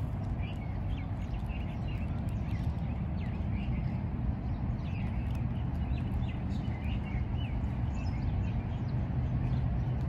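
Small birds chirping, many short chirps scattered throughout, over a steady low rumble.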